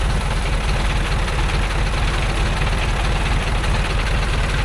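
Loaded logging truck's engine idling steadily, a low even rumble.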